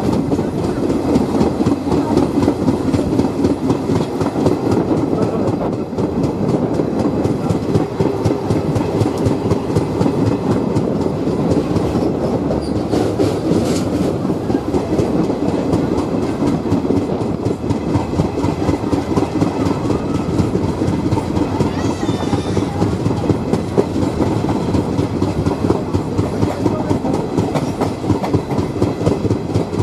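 Passenger train running along the track, heard from on board: steady rumble of the coaches with the wheels clicking over rail joints.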